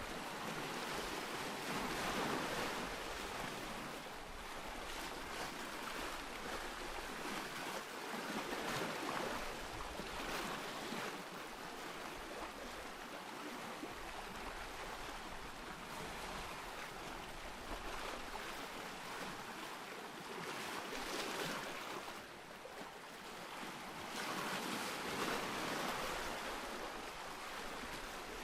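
Ocean surf: waves washing in, the rush swelling and easing every few seconds.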